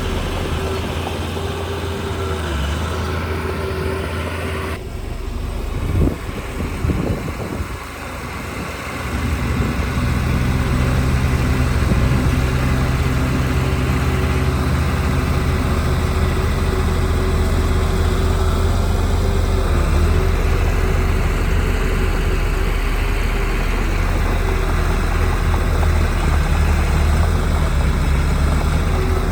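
Heavy earthmoving machinery's diesel engine running steadily, with a few clanks about six to eight seconds in, after which the engine runs louder and steady.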